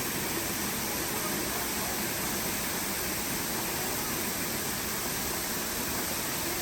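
Waterfall's falling water making a steady, even rush that does not change.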